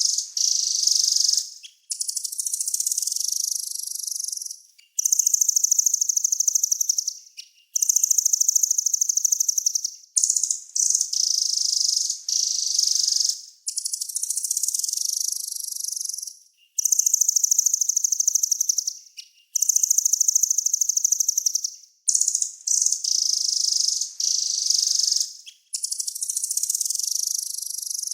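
Small songbird singing a fast, high-pitched trilling song, in phrases of two to three seconds each, repeated over and over with short pauses between them.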